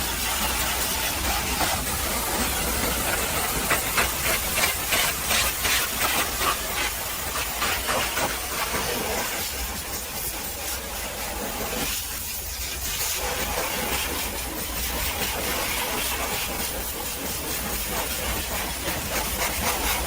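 High-pressure washer jet spraying a truck: a continuous loud hiss that pulses rapidly for a few seconds, with a steady low hum underneath.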